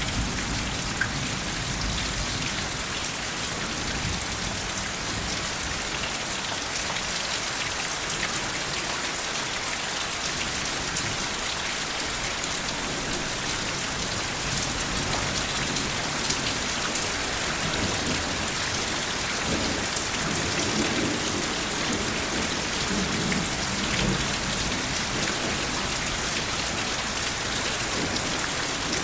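Steady rain falling on surfaces, an even hiss of many drops. Soft, low thunder rumbles are fading at the start and come back faintly a few times about two-thirds of the way in.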